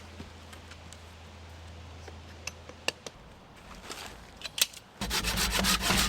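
A hand saw cutting through a green wood pole: scattered light clicks and rustles at first, then, about five seconds in, a quick run of rapid scraping saw strokes.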